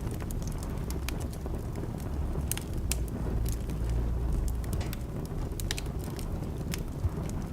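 Wood fire crackling in a fireplace: scattered sharp pops and snaps over a low steady rumble, with one louder pop near the end.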